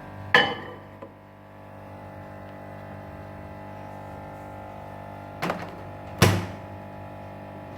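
Microwave oven being loaded and shut: a knock about half a second in, then two sharp knocks close together near the end, over a steady low hum.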